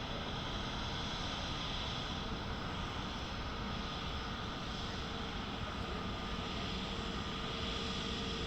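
Airbus A321neo airliner's jet engines running steadily: an even rushing noise with a few held whining tones.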